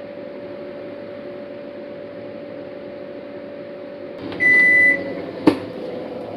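Panasonic NA-FA100H3 washing machine running with a steady hum, then a single short electronic beep from its control panel about four seconds in, followed by a sharp click.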